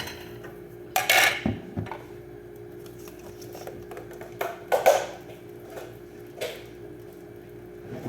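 Kitchen utensils clattering and knocking against pots and dishes: a cluster of knocks about a second in, another near five seconds and a single one later, over a steady low hum.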